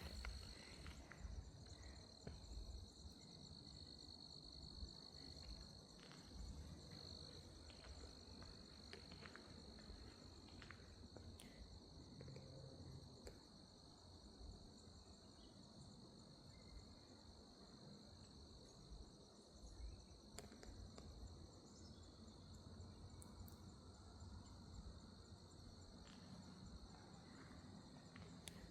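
Faint, steady insect chorus, a continuous high-pitched trill, over a low rumble with a few light clicks.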